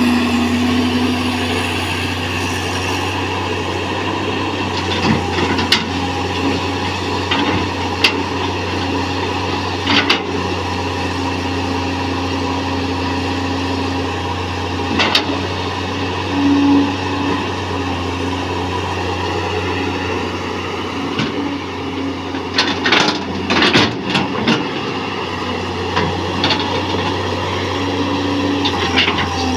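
Caterpillar excavator's diesel engine running steadily under hydraulic load, with scattered metallic clanks and knocks, several in quick succession a little past two-thirds of the way through.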